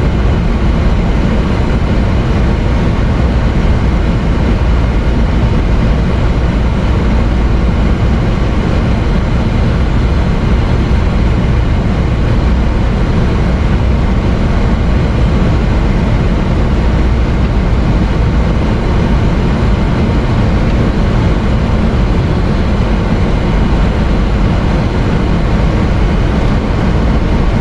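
Steady in-flight noise of a Boeing 737NG: a deep, even rumble with an airy rush over it, unchanging throughout.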